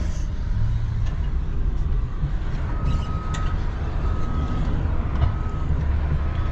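A vehicle engine runs with a steady low rumble. About three seconds in, a reversing alarm starts beeping, one steady tone repeating roughly once a second.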